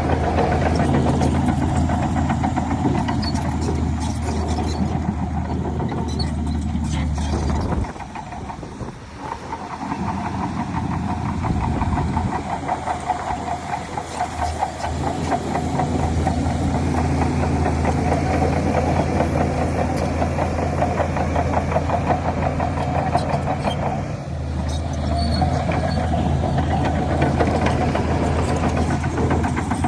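Heavy diesel engine of earthmoving machinery running steadily with a deep, even note. It drops away for a few seconds about eight seconds in, then comes back and runs on steadily.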